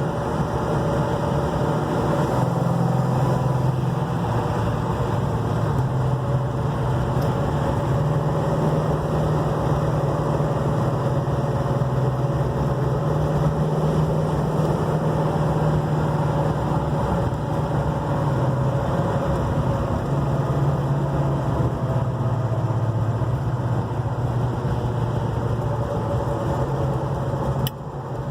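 1969 Dodge Charger's 440 Magnum V8 running steadily while the car is driven, its pitch rising and falling slightly with small changes in speed.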